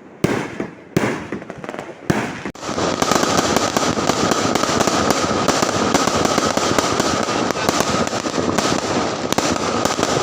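Fireworks going off: a few separate sharp bangs, then from about two and a half seconds in a dense, continuous crackling barrage.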